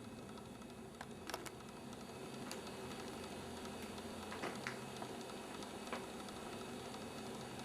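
A few faint, scattered clicks and taps over low steady background noise.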